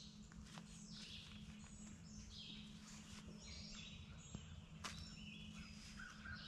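Quiet outdoor birdsong: repeated short falling, chirping phrases, with a few faint sharp clicks and a low steady hum underneath.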